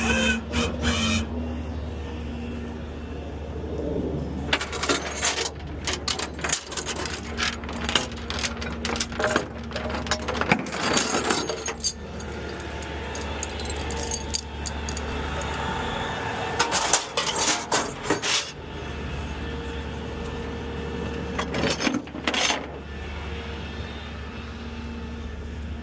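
Tow truck cab on the move: a steady low engine and road hum, broken by irregular runs of sharp clicks and rattles.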